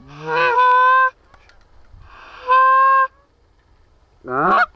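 Goose call blown by a hunter to bring approaching geese into the decoys: three loud honks, the first breaking upward into a long held note, the second held steady, and a short rising one near the end.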